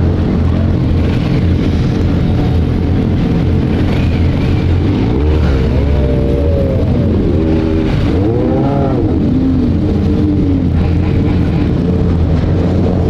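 Motorcycle engines running steadily on a group ride, with a constant low rumble and engine notes that rise and fall in pitch about five to nine seconds in as bikes rev.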